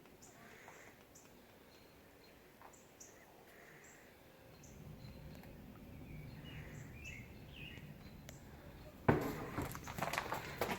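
Primer sealer being poured from a can into a mixing bucket: a low, steady pour starting about halfway through, then a few louder knocks and clatter of the can and bucket being handled near the end.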